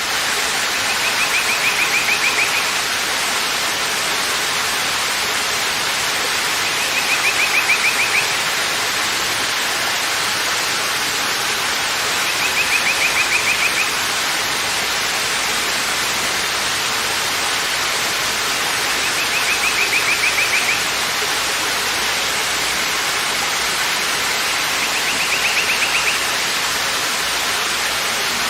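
Waterfall rushing in a steady, even roar of falling water. A short, rapidly pulsed trill sounds five times over it, about every six seconds.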